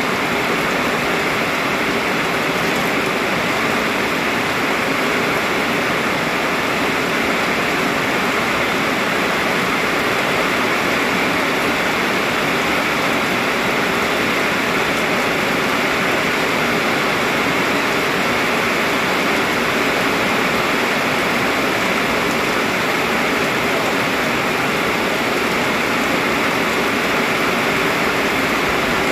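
Heavy rain pouring down steadily, a dense, even rushing hiss with no let-up.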